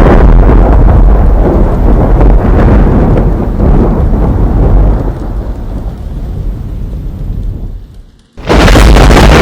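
Model train running on its track, a loud, dense rumble. It fades away from about halfway through to almost nothing, then cuts back in suddenly at full level near the end.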